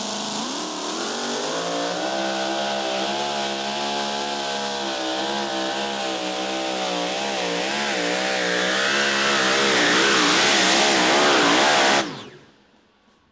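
Super modified two-wheel-drive pulling truck's supercharged Hemi engine revving up from idle and running at high revs under load during a pull, its pitch wavering up and down and growing louder, then cutting off suddenly about twelve seconds in.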